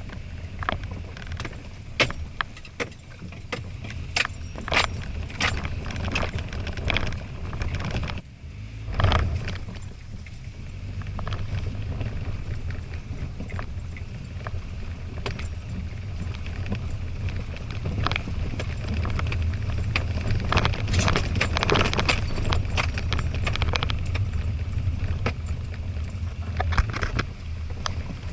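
Toyota Hilux Surf (RZN185) driving on a rough forest track: a steady low engine and road drone with frequent knocks and jangling rattles as the truck jolts over the surface.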